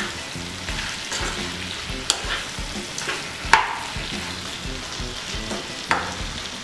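Chicken pieces in masala sizzling in hot oil in a nonstick pan while being stirred with a silicone spatula. A few sharp clacks of the spatula against the pan, about 2, 3.5 and 6 seconds in, the middle one loudest.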